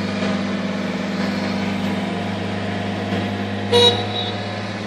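Engine of a heavy demolition machine running steadily at idle, with one short horn toot about four seconds in.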